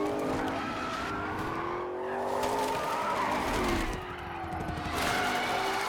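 Ford Shelby GT500 Mustang's V8 revving hard at speed, its engine note rising and falling through the gears, with tyres skidding.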